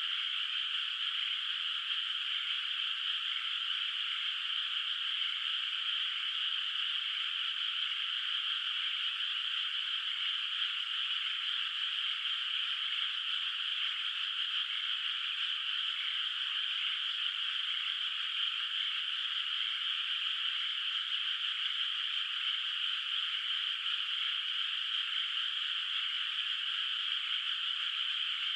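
A dense chorus of many frogs calling together in a flooded rice paddy, one steady, unbroken din with no pauses and no single call standing out.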